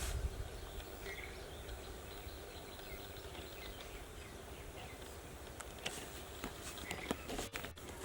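Quiet rural outdoor ambience with a few faint bird chirps, about a second in and again near the end. Several soft clicks or taps come in the last couple of seconds.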